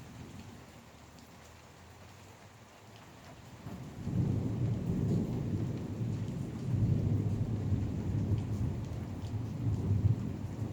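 Rain falling, with a roll of thunder that builds suddenly about four seconds in and rumbles low and long, peaking near the end.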